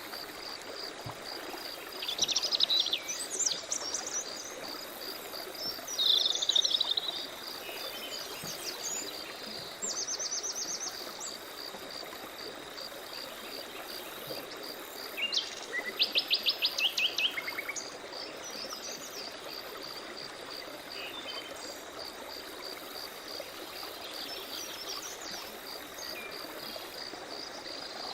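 Several songbirds calling and singing in separate phrases, the loudest a rapid run of repeated notes a little past the middle, over a steady pulsing insect chirp and a low hiss of running stream water.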